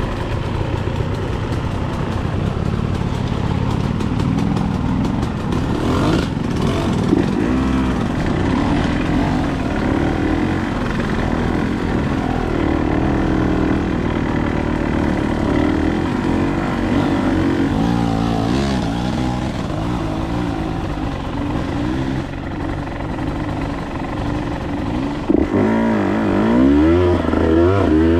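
Dirt bike engine running on a trail, its pitch rising and falling constantly with the throttle. About 25 seconds in, a louder, deeper engine note with quick rev swings comes in.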